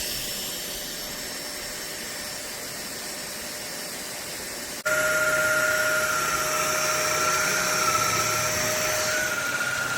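SMOTURE cordless stick vacuum motor running with a steady whirring hiss. Just under halfway through, the sound cuts abruptly to louder running with a steady high motor whine.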